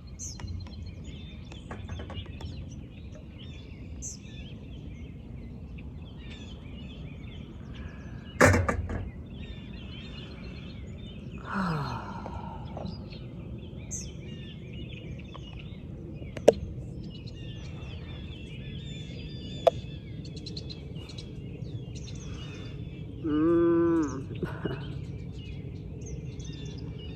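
Small birds chirping and singing over a steady low background noise. A sharp knock comes about eight seconds in, and two brief clicks follow later. Near the end there is a short pitched sound of about a second.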